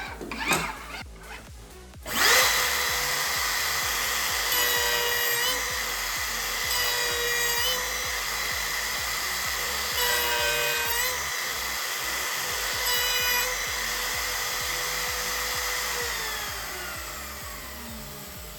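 Electric power tool motor switched on with a steady high whine. Its pitch dips briefly four times, then falls away as it is switched off and spins down near the end.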